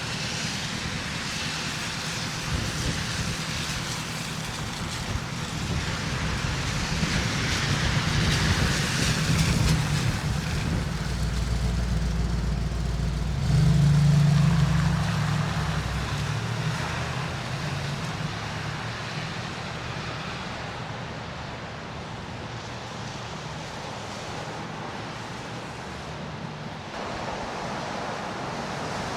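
Street traffic: a motor vehicle's engine hum and tyre noise swell as it passes close, loudest about halfway through, then fade back into the general road noise.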